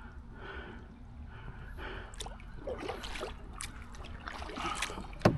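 Double-bladed kayak paddle working the water: blades dipping in and water trickling and splashing off them in irregular strokes, with a single sharp knock near the end.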